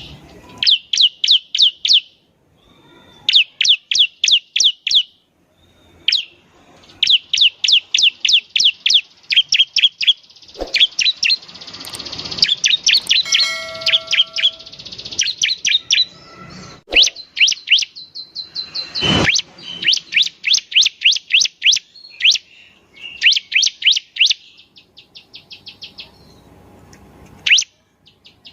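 Bar-winged prinia (ciblek) singing: repeated bursts of rapid, sharp, high chipping notes, each burst lasting a second or two with short pauses between, and a denser run of mixed chirps through the middle.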